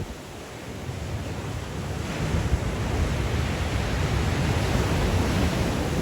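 Black Sea surf in strong wind: a wave swells and breaks, growing louder over the first two seconds into a steady rushing wash. Wind buffets the microphone, adding a low rumble.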